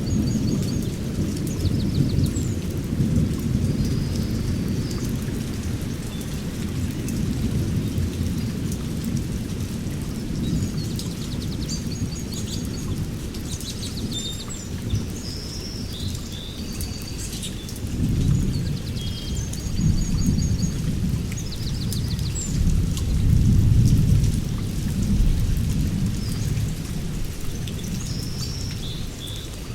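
Low rolling thunder with steady rain, the rumble swelling near the start and again about two-thirds of the way through, while small songbirds chirp and trill in short, high calls.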